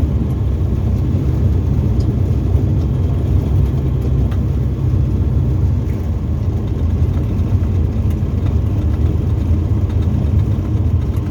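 Tecnam ultralight's piston engine running steadily, heard from inside the cockpit as an even, low drone.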